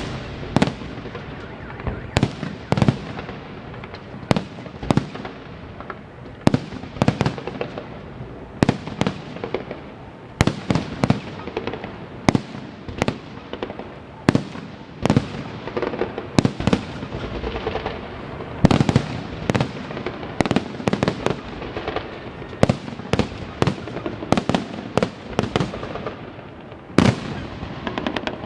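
Festive fireworks salute: aerial shells bursting one after another, sharp bangs coming every half second to second or so over a continuous rumble and crackle.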